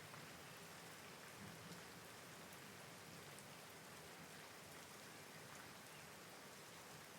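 Soft, steady rain falling, with faint scattered drops ticking.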